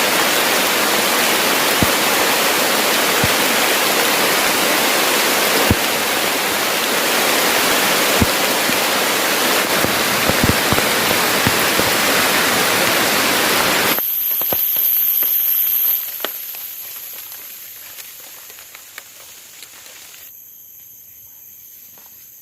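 Heavy rain pouring steadily, with scattered sharp drop knocks. About fourteen seconds in the rain drops away sharply and fades, leaving a steady, high-pitched insect trill.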